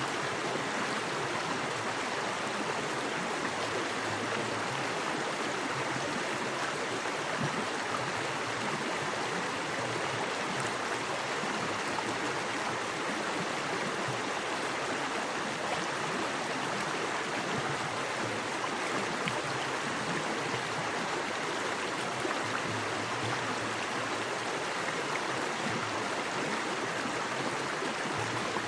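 Small forest creek with fast water flowing over rocks: a steady, even rushing and splashing.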